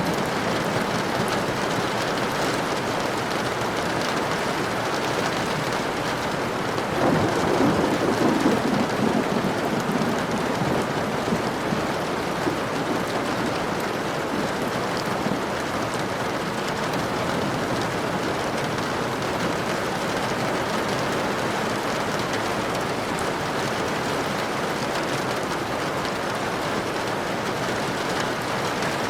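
Steady rain falling, an even hiss of drops. About seven seconds in, a low rumble swells up and fades away over a few seconds.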